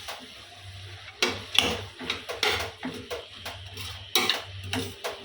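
A utensil stirring vegetable soup in a cooking pot, with irregular scrapes and knocks against the pot, over a steady low hum.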